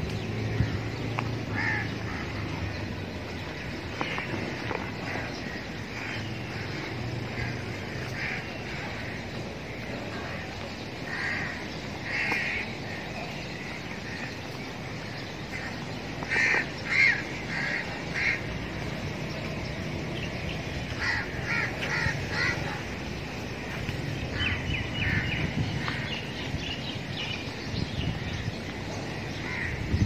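Birds calling in short, repeated bursts, several clusters of calls, the loudest about halfway through, over a steady low background rumble.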